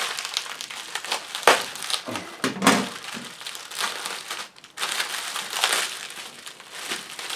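Plastic packaging and tape crinkling and tearing as a taped-up CPU package is pulled open by hand, in irregular rustles with sharp crackles.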